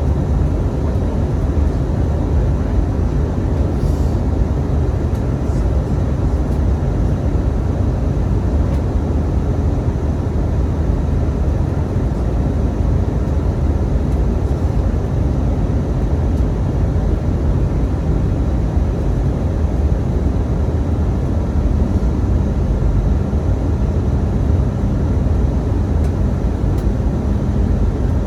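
Steady low roar of an Airbus A319 airliner in flight, engine and airflow noise as heard through the fuselage, with a faint hum joining about three quarters of the way through.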